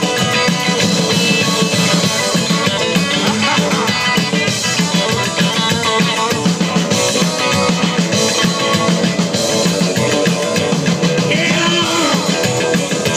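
Live rock and roll band playing a song, with drum kit and guitar running steadily throughout.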